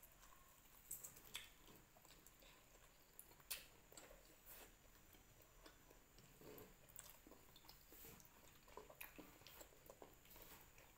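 Near silence with faint chewing of fried tofu and a few small scattered clicks of a fork and fingers on a plate.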